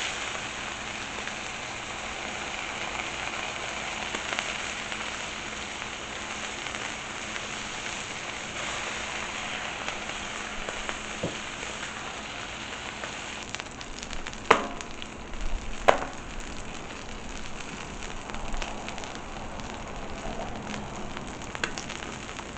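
Food sizzling steadily on a hot flat-top griddle, with two sharp knocks a second and a half apart about two-thirds of the way through.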